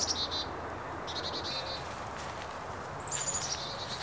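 A songbird singing short phrases of high notes that step down in pitch, repeated a few times over a steady outdoor hiss.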